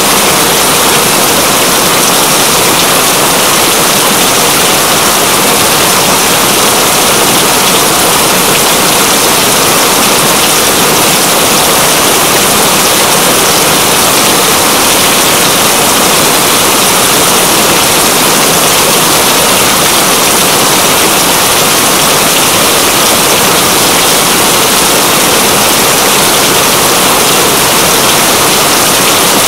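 Steady rain, a dense even hiss with no breaks or changes.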